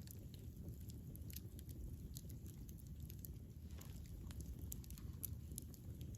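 Wood campfire burning with a low steady rumble and scattered, irregular small crackles and pops.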